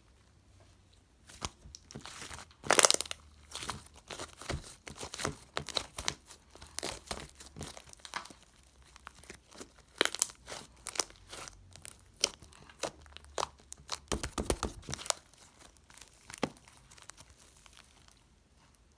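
Slime being pressed and stretched by hand, making irregular crinkly crackles and pops, loudest about three seconds in and stopping shortly before the end.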